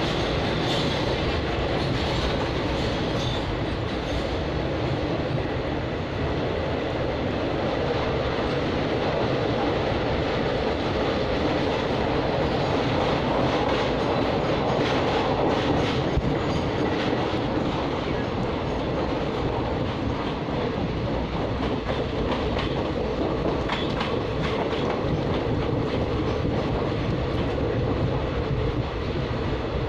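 Passenger train running steadily, heard from inside the coach at the window: a continuous rumble with the clatter of wheels over the rails.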